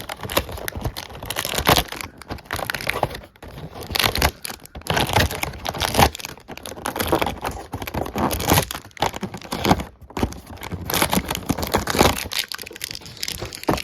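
Plastic blind-bag wrappers and cardboard toy packaging crinkling and tearing as they are opened by hand, in dense irregular crackles.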